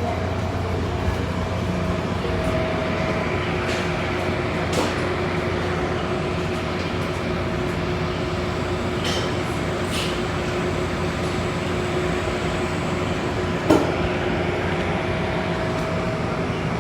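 VRE commuter train's diesel locomotive running steadily: a constant low rumble with a faint steady whine. A few short clicks, and one sharper knock near the end.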